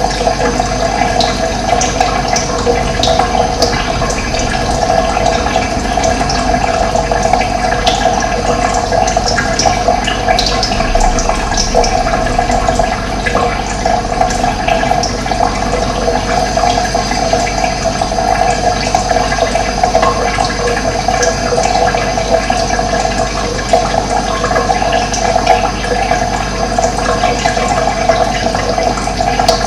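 Running water flowing steadily, a continuous rushing and splashing with no break.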